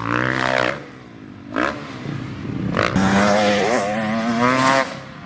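Dirt bike engine revving in bursts: a rising rev that cuts off about a second in, a short blip, then a longer climbing rev that drops away near the end.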